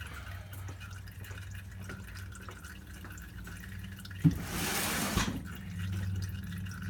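Motor oil dripping and trickling from the truck's oil pan into a drain pan, over a steady low hum. About four seconds in there is a sharp knock followed by a second of loud rustling noise.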